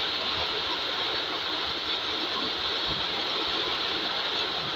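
Heavy rain falling steadily, an even hiss of drops with no breaks or single strikes standing out.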